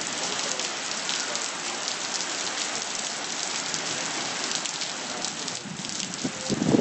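Heavy rain falling steadily: a dense hiss with many scattered sharper drop hits.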